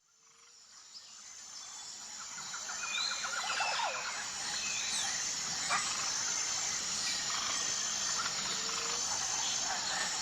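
Outdoor nature ambience: scattered bird chirps over a steady high hiss, fading in over the first few seconds.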